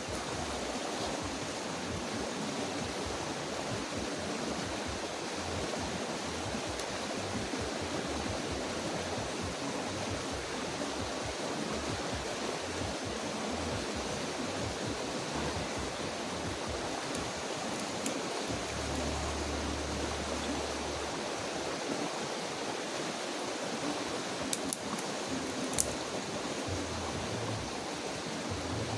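Creek water running steadily, an even rushing hiss, with a short low rumble partway through and a few faint clicks near the end.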